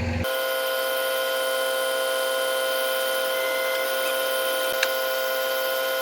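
A steady mechanical whine held at several fixed pitches over a hiss, with a few sharp light clicks near the end.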